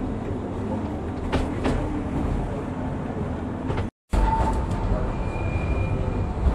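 Electric metre-gauge rack-railway train of the Tramway du Mont Blanc running uphill, heard from on board: a steady rumble with a few sharp clicks from the wheels and running gear. The sound cuts out for a moment about four seconds in. After that a thin, high, steady squeal comes in as the track curves.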